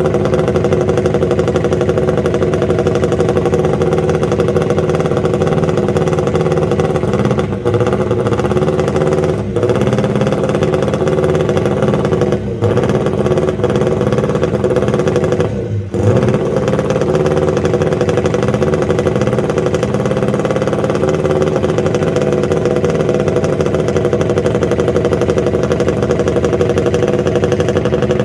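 Honda RC142's 125 cc twin-cylinder racing engine running loud and steady at high revs. The sound dips briefly four times, the last and deepest about halfway through, before picking up again.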